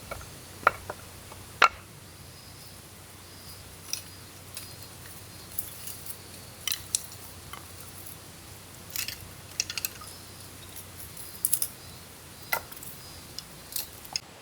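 Scattered light clicks, taps and clinks of small hard objects being handled, irregular and a dozen or more in all, over a steady soft background hiss.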